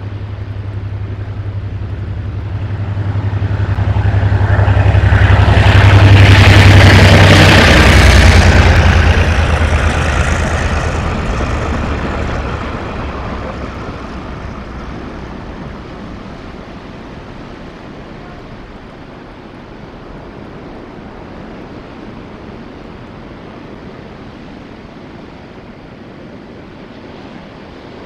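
A freight train passes through the station. It starts with a deep hum from the locomotive, is loudest about six to eight seconds in as the train goes by, then fades away over the next several seconds.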